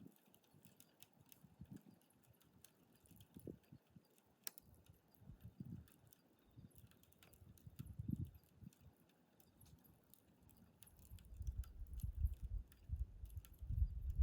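Wood fire crackling with many small sharp pops, one louder snap about four and a half seconds in. Low dull thuds come and go and grow denser and louder in the last few seconds.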